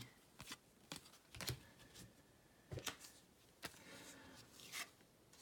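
Faint rustling and flicking of trading cards handled one after another: soft, short strokes at irregular intervals.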